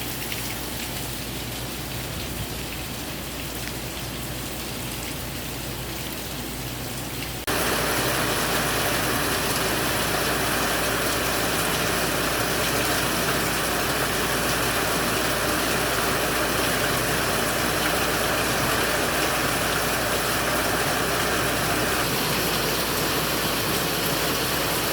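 Heavy rain pouring steadily. About seven seconds in it abruptly becomes louder and stays that way.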